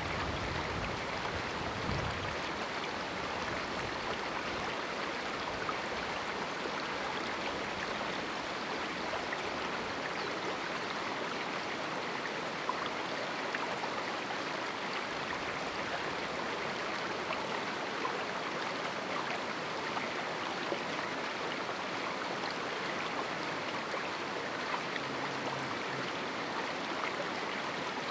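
A canyon river flowing steadily: an even, unbroken rush of running water.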